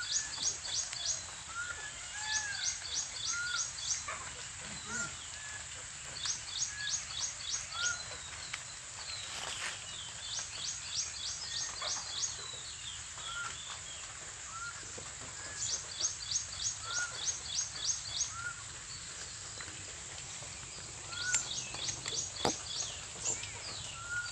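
Birds calling outdoors: a run of about six quick, high, sharp notes comes again every few seconds, while a softer rising-and-falling note repeats about once a second. A steady high insect hiss runs underneath.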